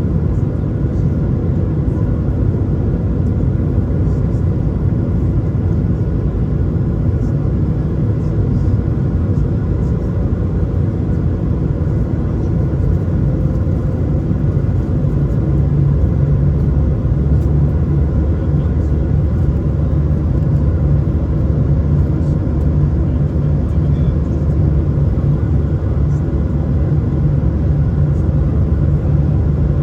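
Airbus A220 cabin noise: the steady low rumble of its Pratt & Whitney PW1500G geared turbofans and airflow, with a few faint steady tones above it. The low rumble grows slightly louder about halfway through.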